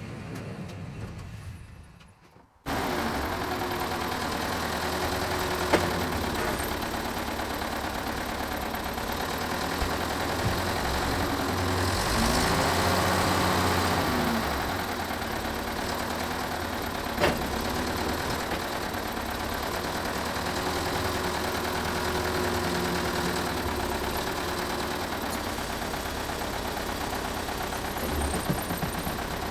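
Sawmill's gas engine running steadily. It cuts in abruptly a couple of seconds in after a brief quieter stretch, and two sharp knocks sound along the way.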